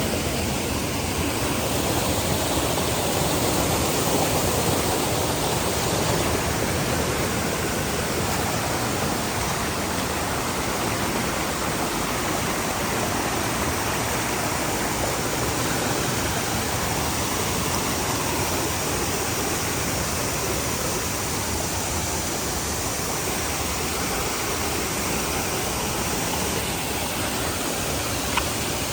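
A waterfall's steady rush of falling water. There is one brief tick near the end.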